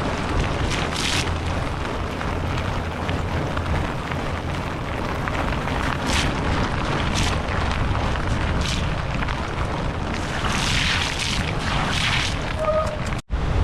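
Wind buffeting the microphone of a camera on a moving bicycle: a steady low rumble, with several surges of hiss from the wet road. The sound cuts out for an instant near the end.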